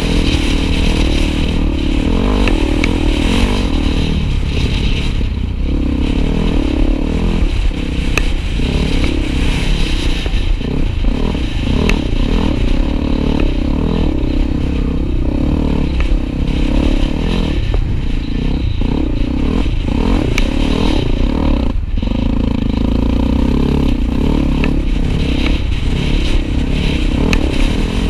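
Honda XR250 Tornado motorcycle's single-cylinder four-stroke engine running under way, its note wavering up and down with the throttle over a steady low rumble.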